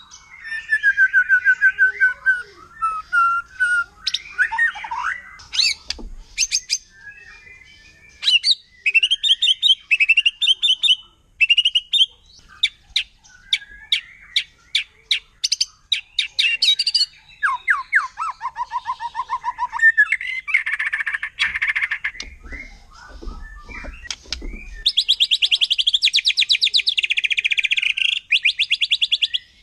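White-rumped shama (murai batu) singing a long, varied song: whistled slurs, runs of sharp rapid-fire notes, and a fast buzzy trill near the end.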